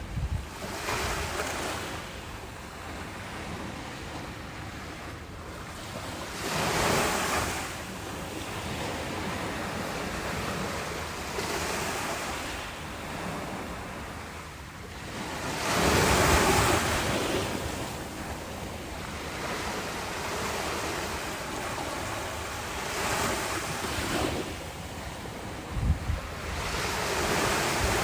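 Ocean waves breaking and washing ashore, each wave swelling up and fading over a few seconds, with a steady wash between them; the wave about halfway through is the loudest. A couple of short low thumps, like wind hitting the microphone, come near the end.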